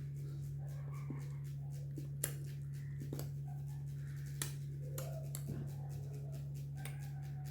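Steady low electrical hum, with a couple of faint sharp clicks and soft handling noises, about two and four and a half seconds in.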